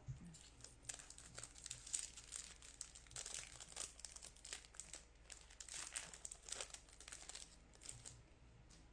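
Foil wrapper of a Topps baseball card pack crinkling as it is torn open and handled: a quick run of faint crackles.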